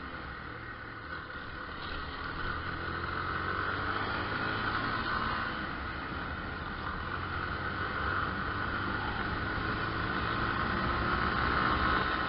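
Yamaha Fazer 250's single-cylinder engine running steadily while riding, growing a little louder about two seconds in.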